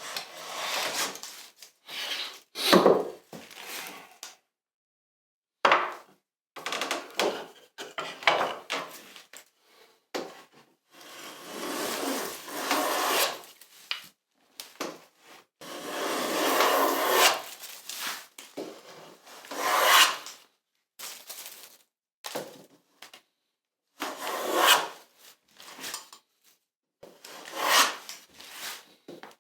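Hand tools working wood: a series of rubbing and scraping strokes of uneven length, some quick and short, others lasting a second or two, broken by a few sudden silences.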